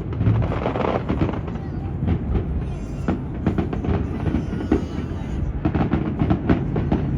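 Fireworks popping and crackling in quick succession, under heavy wind rumble on the microphone.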